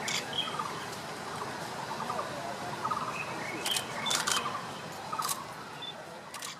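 Short high chirps of white-eyes, with about five sharp clicks scattered through.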